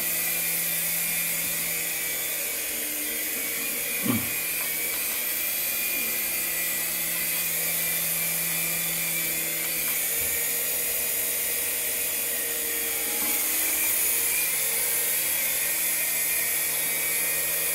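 Small electric remote-control helicopter's motor and rotors running steadily with a high whine, with a brief falling sweep about four seconds in.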